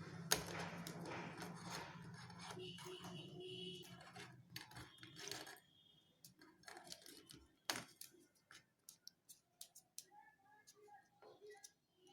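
Scattered light clicks and taps, with a low hum and rustling under the first half; near the end a few soft, short parrot chirps.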